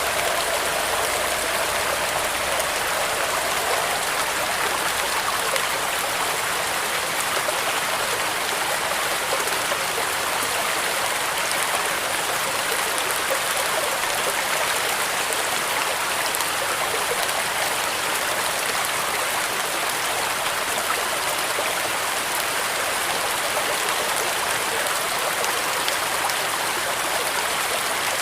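Steady rain falling, a dense, even hiss with no thunder or breaks.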